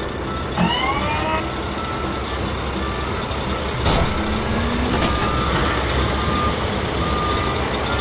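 Cartoon sound effects for a wheel loader at work. A heavy engine runs steadily, with a rising whine early on as the bucket lifts and a sharp clunk about four seconds in. In the second half a reversing beeper sounds about once a second.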